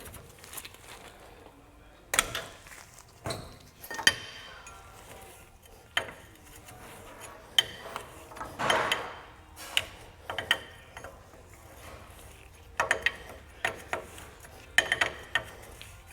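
Hand tools working on a Humvee's bolts and fittings: irregular metal clicks and clanks of a wrench, with a short scraping sound about nine seconds in.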